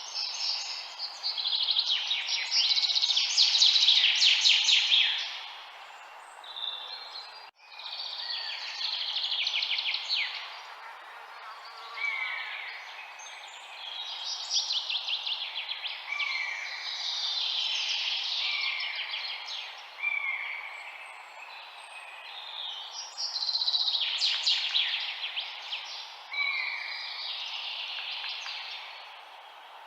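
Songbirds singing in overlapping phrases of rapid trills and repeated down-slurred whistles, over a steady background hiss. The sound cuts out for a moment about seven and a half seconds in.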